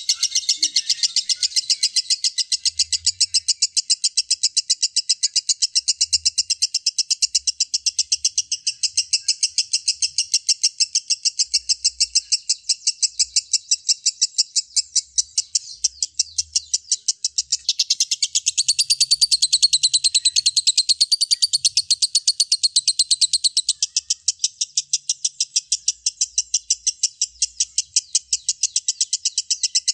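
Lovebird singing its long ngekek chatter: a fast, even, unbroken run of sharp high chirps, several a second, swelling fuller about two-thirds of the way through.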